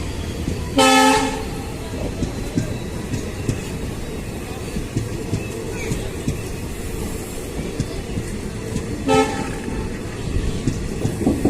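Locomotive horn sounding two short blasts, the first about a second in and a shorter one about eight seconds later, over the steady rumble of a train.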